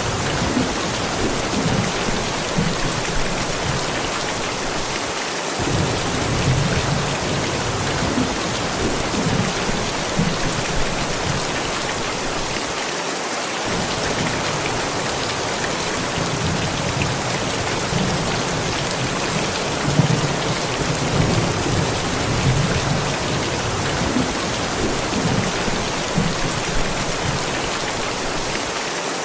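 Steady heavy rain falling, with low rumbles of distant thunder that swell and fade again and again.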